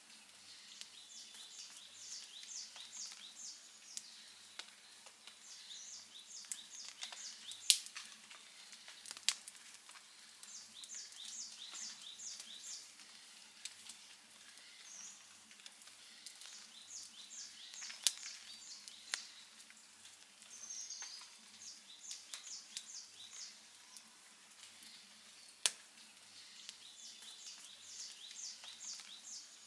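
Campfire crackling, with scattered sharp pops; the loudest come about eight, eighteen and twenty-six seconds in. A high chirping repeats throughout in quick runs of five or six notes every few seconds.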